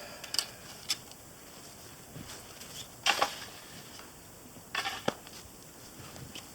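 Branches and brush being cleared by hand: a few light clicks, then two short crunching rustles about three and five seconds in.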